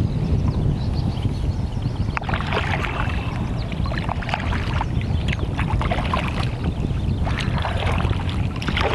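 Wind rumbling steadily on the microphone while choppy water splashes and laps against a canoe hull, with irregular splashes that grow busier from about two seconds in.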